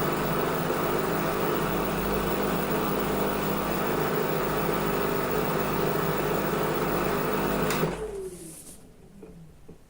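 Washing machine running steadily with a motor hum; a little under eight seconds in it cuts off with a click and the motor winds down, its pitch falling as the drum coasts to a stop.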